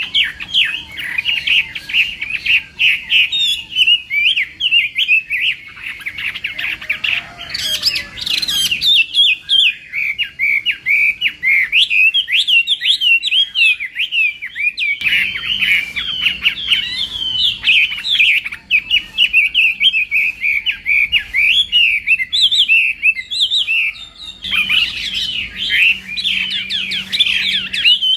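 Chinese hwamei singing a long, rapid, varied song of sliding whistled notes, phrase after phrase without a break.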